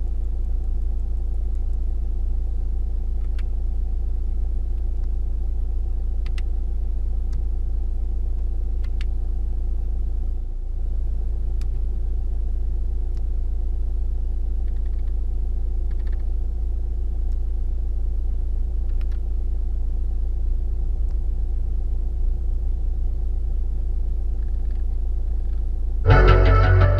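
Nissan 1.5 dCi four-cylinder turbodiesel engine idling steadily, with a few faint light ticks. Music comes in near the end.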